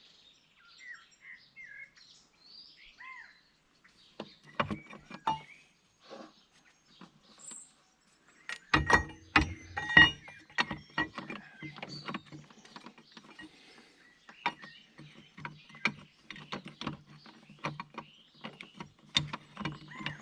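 Hand tools working on steel bulldozer steering-clutch parts: a few clicks, then from about halfway in a long run of quick metallic clicks and knocks, like a ratchet wrench being worked. Birds chirp near the start.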